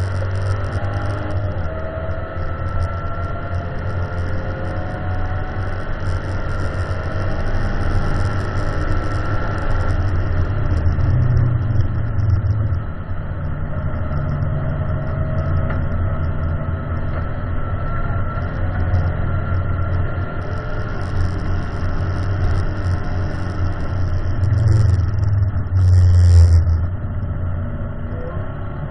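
Ford Mustang's engine under hard load on track, heard from inside the cabin over road and tyre noise, its revs climbing and falling through the gears. The engine note drops sharply about 13 s in, and again near the end just after its loudest stretch.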